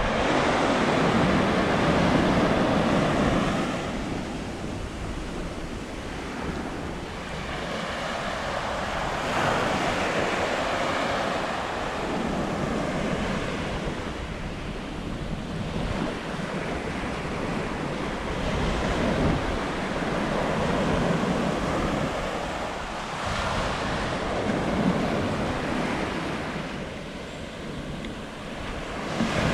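Sea waves washing onto the beach, the rush of surf swelling and fading every few seconds, with wind noise on the microphone.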